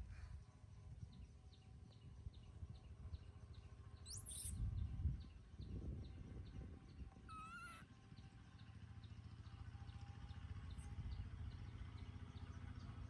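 Two brief high animal calls, one a quick rising squeak about four seconds in and one a short wavering cry about seven seconds in, over a faint, even, high ticking and a low steady rumble.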